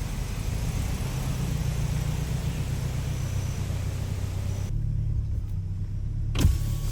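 Car engine running with a steady low rumble. A single sharp thump comes near the end.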